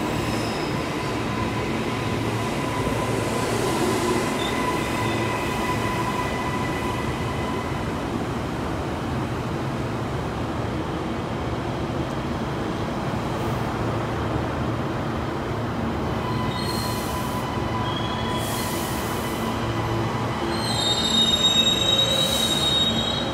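Queensland Rail electric train moving through the platform with a steady rumble and whine, and its wheels squealing high and loudest near the end.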